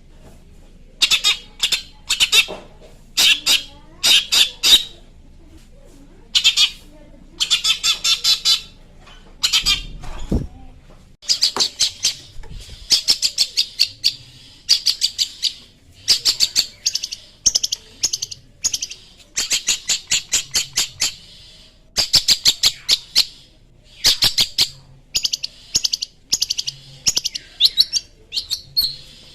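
Long-tailed shrike (cendet) singing in bursts of rapid, harsh chattering notes, each run lasting a second or so with short pauses between.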